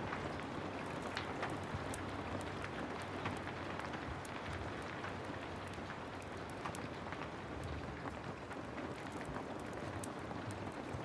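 Heavy rain falling steadily, with many small sharp crackles of a wood fire scattered irregularly through it.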